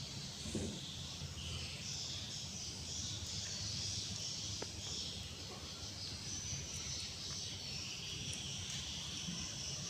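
Outdoor insect chorus, a steady high chirring that swells and fades, over a low hum.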